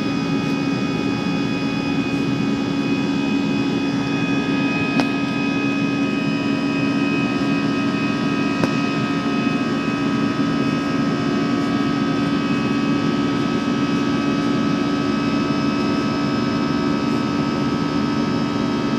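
Steady jet engine and airflow noise inside an Airbus A320-200 cabin, heard from a forward window seat: an even rush with a constant low hum and several steady high whining tones.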